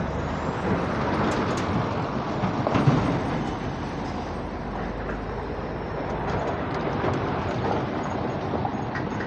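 CAT 320D2 hydraulic excavator working: a steady rumble of engine and machinery, with a few sharp knocks in the first three seconds.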